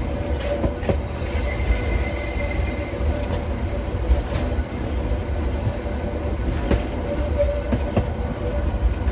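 Narrow-gauge train running along curving track: a steady low rumble from the wheels and running gear, with a thin wheel squeal on the curve and an occasional clack over rail joints.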